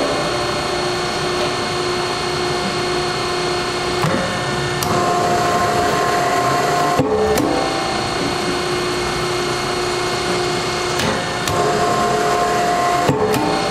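Hydraulic log splitter running, its pump giving a steady whine whose pitch shifts about four seconds in and again near eleven seconds, as the machine works. A few sharp clicks or knocks sound over it.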